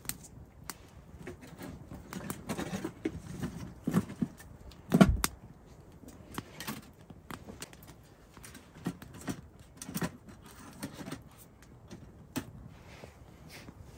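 Handling noises: scattered small knocks, clicks and rustles, with one louder, heavier thump about five seconds in.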